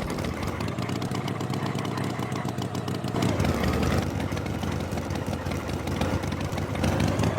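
Tractor engine running steadily in a low, rapid chug.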